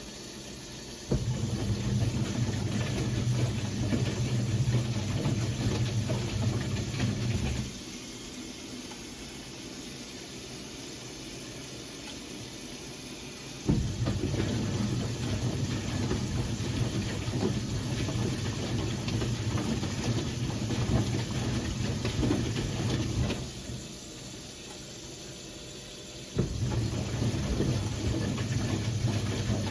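1978 Siemens WA4600 washing machine turning its drum in the wash rhythm: the motor hums for several seconds at a time with the laundry churning, pauses, then starts again, three runs in all, with a long pause in the middle and a shorter one near the end.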